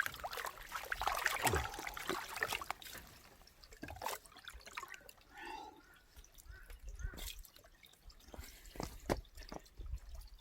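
Water trickling and splashing while a raw chicken is rinsed and cleaned. The water is busiest in the first three seconds, then thins to scattered drips and small knocks.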